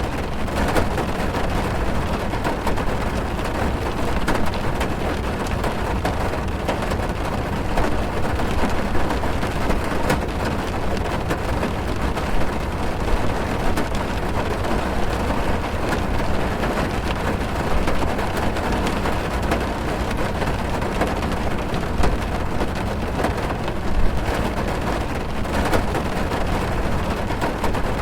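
Heavy rain on a car's roof and windows, heard from inside the car: a steady, dense patter of drops over a low rumble.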